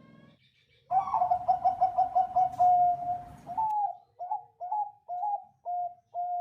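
Zebra dove (perkutut Bangkok) singing. About a second in comes a rapid rolling run of about ten quick notes, then five separate rising coos about half a second apart, the last held longer.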